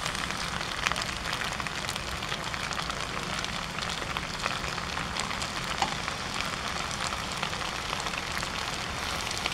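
Noodles sizzling in a wok while being stir-fried with a steel spatula: a steady frying hiss with occasional scrapes and taps of the spatula on the pan.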